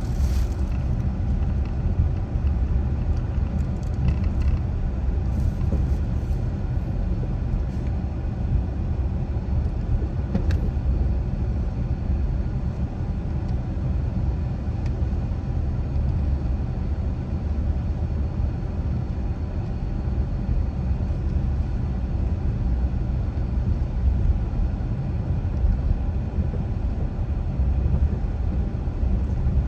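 A car driving at a steady pace: a continuous low rumble of road and engine noise, with a few faint ticks in the first seconds.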